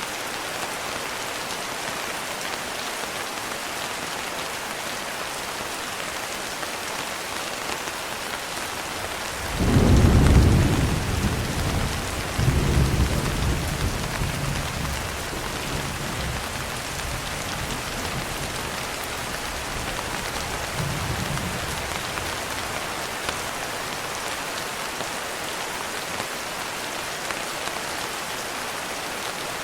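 Steady rain falling. About a third of the way in, a low thunder rumble rolls in, swells again a few seconds later and fades slowly. A faint further rumble comes near two-thirds of the way.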